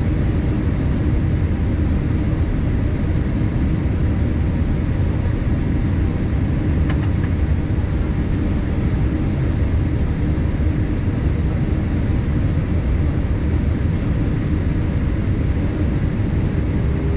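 Steady cabin noise of a Boeing 787-8 airliner in flight: a constant low rumble of engines and airflow.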